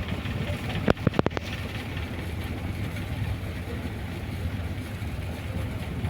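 A river boat's engine running steadily, with a quick run of about five sharp knocks about a second in.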